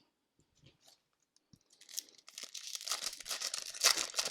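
Plastic hockey card pack wrapper being crinkled and torn open by hand, starting about halfway through and growing louder, after a few faint handling clicks.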